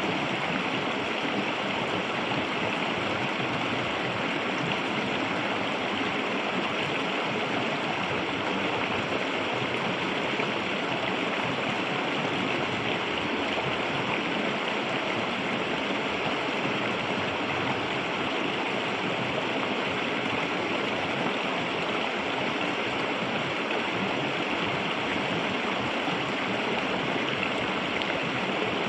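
Clear river water flowing in a steady, even rush, without pause or change.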